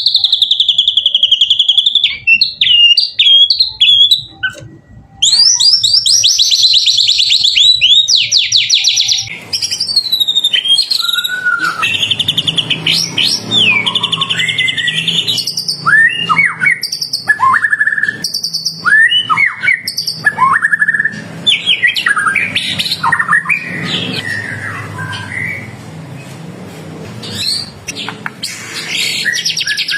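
A white-rumped shama (murai batu) singing a loud, varied run of whistled phrases, with a rapid buzzy trill a few seconds in. Low background hiss sets in about ten seconds in.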